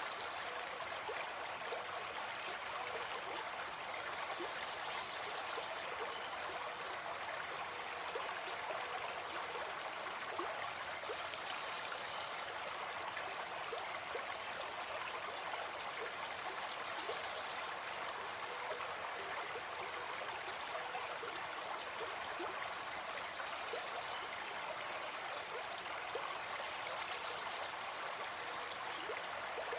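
Gentle forest stream flowing steadily, an even rush of running water.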